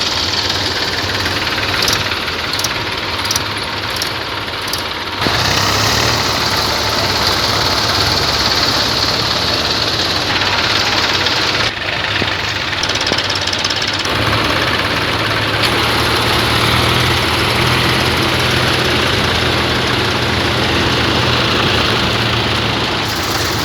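Tractor diesel engines running, loud and continuous, with a steady low engine note; the sound steps up suddenly about five seconds in and dips briefly near twelve seconds.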